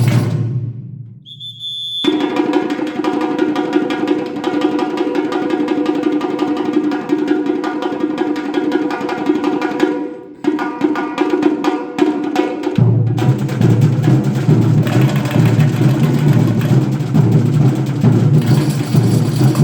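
Band rehearsing instrumental music: fast, steady drumming over sustained chords. It drops out briefly about a second in and again just after ten seconds, then comes back with a fuller, heavier low part.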